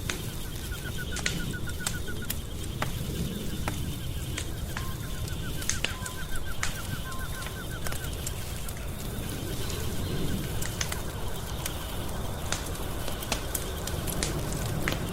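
Wood fire crackling and popping over a steady low rumble, with sharp pops scattered throughout. Two faint, rapid trills of high chirps sound once near the start and again in the middle.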